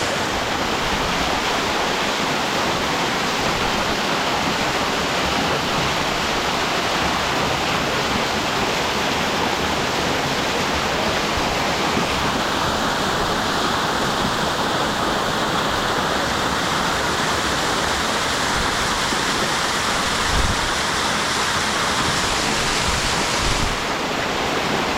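Waterfall: a steady, loud rush of falling water, with two brief low thumps about twenty and twenty-three seconds in.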